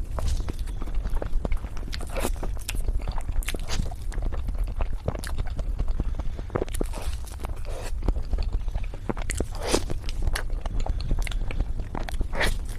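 Close-miked eating of chocolate mousse cake: chewing with many short, sharp wet mouth clicks and smacks, over a steady low hum.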